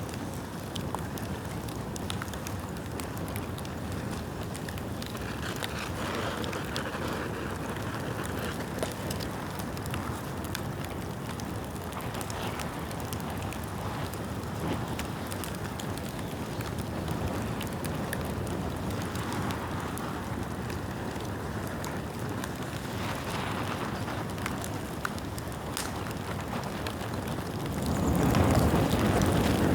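Bonfire of damp bamboo burning, a steady rush of flames with many small crackles and pops. The sound swells louder near the end.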